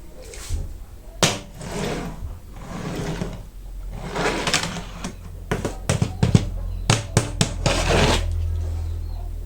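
Toy-car packaging being handled and opened: rustling of plastic and card with sharp clicks, a cluster of quick clicks in the second half, over a steady low hum.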